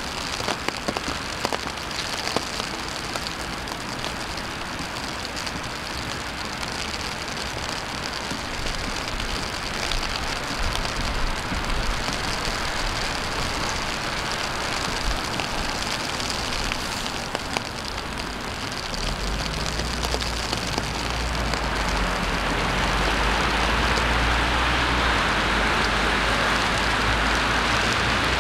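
Steady city rain falling, with scattered sharp drop ticks. About two-thirds of the way in, a vehicle's low engine rumble joins and the hiss of tyres on the wet road grows louder.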